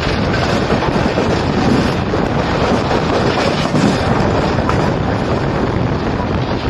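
Loud, steady rush of wind on the microphone mixed with the running noise of a passenger train's wheels on the rails, heard from an open door of a Humsafar Express coach travelling at full speed.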